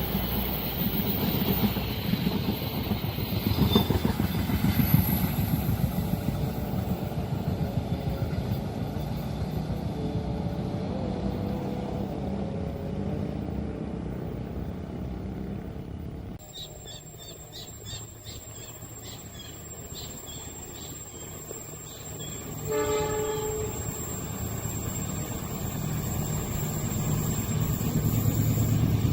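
A train passing at a level crossing, its wheels clattering and rumbling for about the first half, then dropping off abruptly. About two-thirds in comes one short horn blast, and a rumble builds again toward the end.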